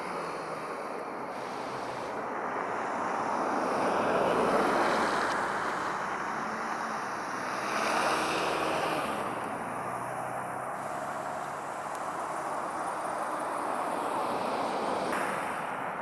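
Road traffic: vehicles passing with tyre and engine noise that swells about four to five seconds in and again about eight seconds in. No siren is heard.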